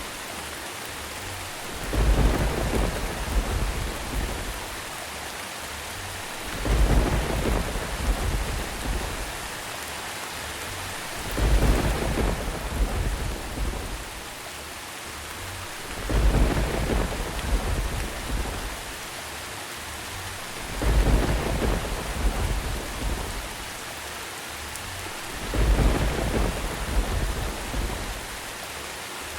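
Steady rain with a deep rumble of thunder about every five seconds, six rumbles in all, each lasting about two seconds. They repeat so evenly that they sound like a looped recording.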